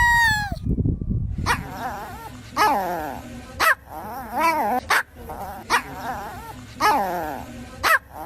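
An animal giving a series of short, whiny cries whose pitch wavers up and down, about one a second, broken by sharp clicks.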